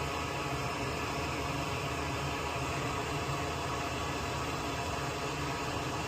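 Steady hiss of a running fan or blower with a low hum underneath, unchanging throughout.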